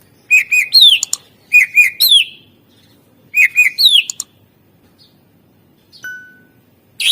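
Green leafbird (cucak ijo) singing: three loud, matching phrases in the first four seconds, each two quick notes and then a note that sweeps up and slides back down, followed by a brief thin whistle and another phrase right at the end.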